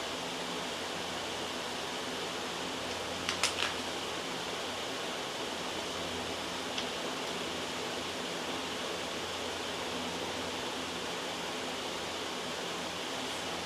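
Steady loud white noise with a faint hum beneath it. Three quick soft taps come a little over three seconds in, and a faint tick near seven seconds.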